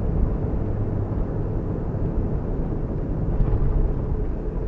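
Fiat Uno Mille car driving: steady engine and road noise.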